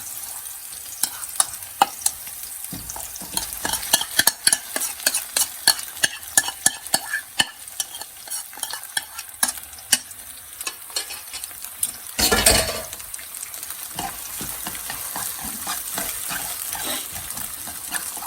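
Egg-coated cold rice sizzling in hot oil in a frying pan while being stirred and tossed, with a steady hiss of frying and many quick clicks and scrapes of a utensil against the pan. One louder, longer burst of sound comes about twelve seconds in.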